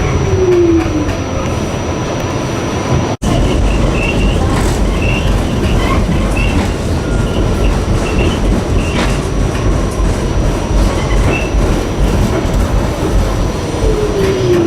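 NYC subway train running on the track, a steady rumble with short high wheel squeals. A whine falls in pitch near the start and again near the end, and the sound cuts out for an instant about three seconds in.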